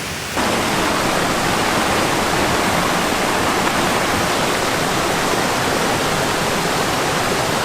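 Small, fast-flowing stream rushing steadily, heard close. It comes in abruptly, louder, about half a second in.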